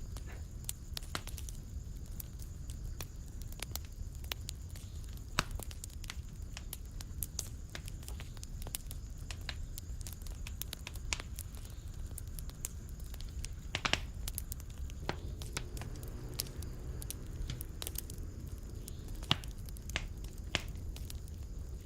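Wood fire crackling in a fireplace: irregular sharp pops and snaps over a low, steady rumble of the flames, with a few louder pops scattered through.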